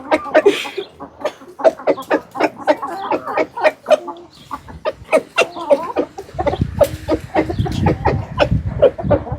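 Backyard hens clucking steadily as they feed on kitchen scraps, short calls coming several times a second. A low rumble joins in from about six and a half seconds until nearly the end.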